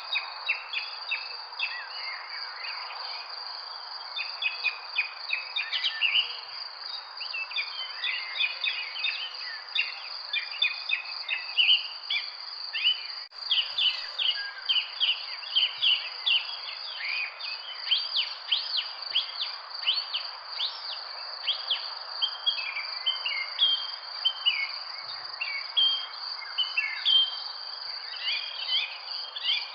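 Dense chorus of many birds chirping and calling, over a steady high-pitched insect trill and an even background hiss of outdoor noise.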